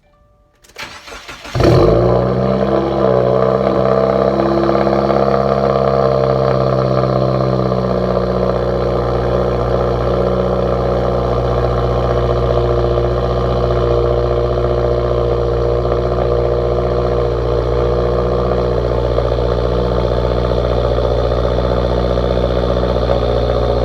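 2015 Subaru WRX's 2.0-litre turbo flat-four cold-started through a catless intermediate pipe and muffler-delete axleback: the starter cranks for under a second, the engine catches with a loud flare, then settles into a steady fast cold idle that drops slightly about eight seconds in.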